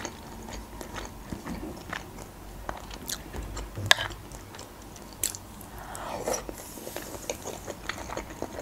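Close-up chewing of soft boiled meat and noodles, with irregular wet mouth clicks and smacks, and one sharper click about four seconds in.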